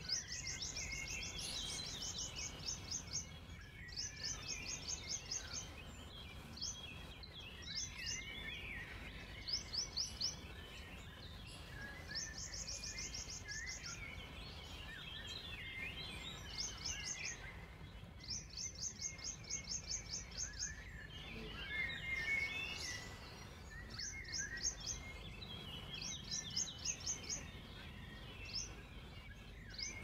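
Songbirds singing: one bird repeats a rapid, high trill in bursts of one to two seconds, again and again, while others twitter and chirp at lower pitch. A faint low, steady background rumble runs underneath.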